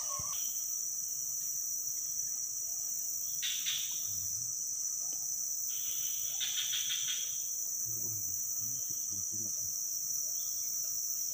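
Steady high-pitched chorus of insects in a forest swamp. Two short pulsing calls, a little lower, stand out about three and a half seconds in and again near the middle.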